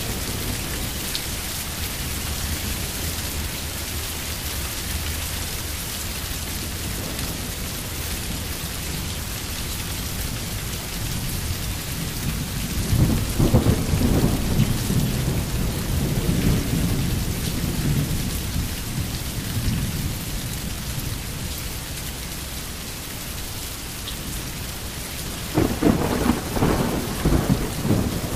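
Steady, heavy rain hiss with thunder: a long rolling rumble builds about halfway through and fades over several seconds, and a sharper, closer thunderclap breaks near the end.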